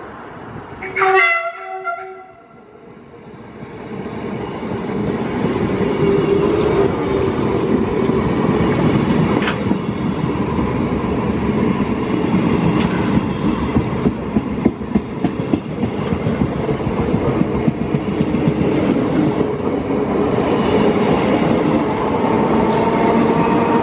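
A train sounds one short horn blast about a second in. Then the train's running noise builds over a couple of seconds and stays loud, with scattered clicks of the wheels over rail joints.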